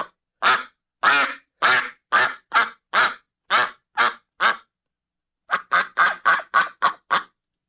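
Duck quacking in a steady series, about two quacks a second. After a short pause midway, a quicker run of quacks follows.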